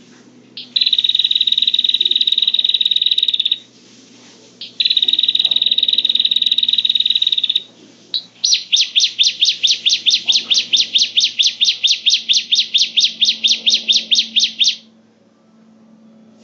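Prenjak (prinia) song used as a bird-trapping lure call: two long, fast, buzzing trills of about three seconds each, then a slower run of sharp repeated notes, about five a second, for some six seconds.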